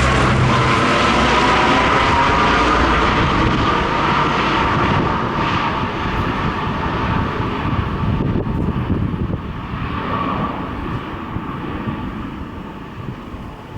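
Four-engine turboprop of a P-3C Orion patrol aircraft flying low overhead, loud at first and then fading steadily as it moves away, its droning tone sliding slightly lower in pitch.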